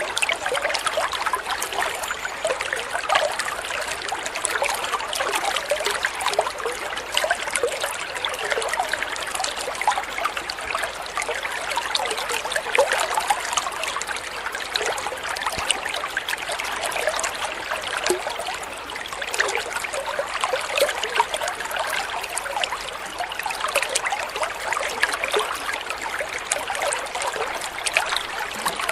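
Water trickling and splashing steadily, a continuous babble of small splashes like a little stream or rill.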